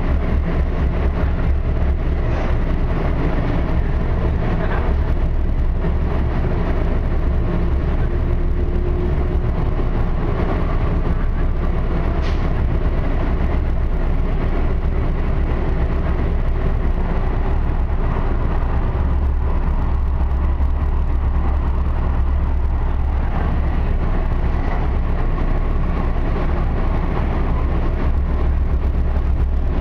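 Expo Line light-rail train running, heard from inside the car as a steady low rumble with rattle and road noise.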